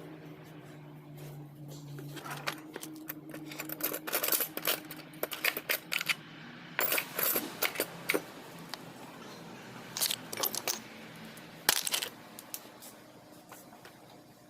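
Metal hand tools and car parts clinking and clanking in quick irregular knocks, busiest from about two seconds in to about twelve seconds in, over a steady low hum.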